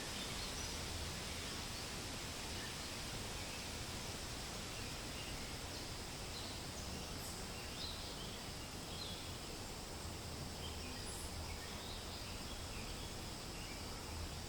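Forest ambience: steady wind rustling through leaves, with scattered short bird chirps throughout.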